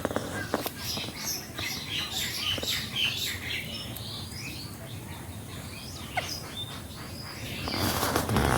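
Birds chirping in many short, high calls, busiest in the first half and sparser after. A louder, rougher sound builds up just before the end.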